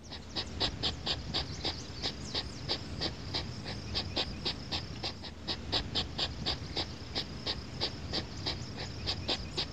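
Hedgehog snuffling: quick, regular sniffing puffs, about four or five a second, with a low rumble underneath.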